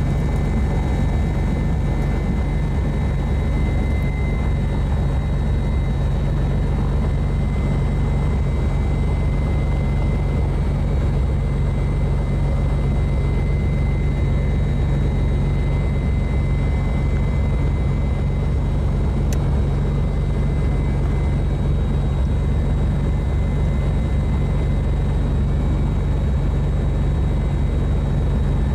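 Bellanca Super Viking's single piston engine and propeller droning steadily, heard inside the cockpit.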